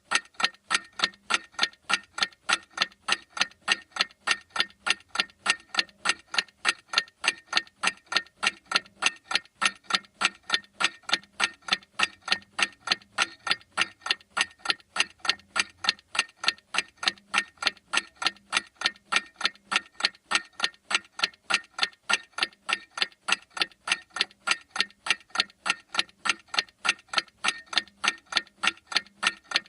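Clock ticking with steady, evenly spaced ticks.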